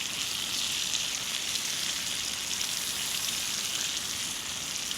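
Salmon frying in butter in a pan, sizzling steadily.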